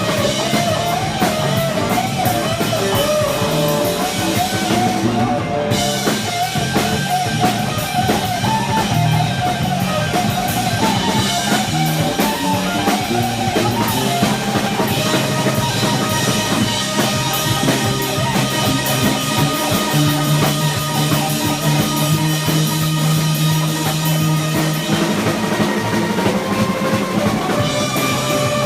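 Live rock band playing an instrumental passage: a wavering guitar lead over drums and low bass notes.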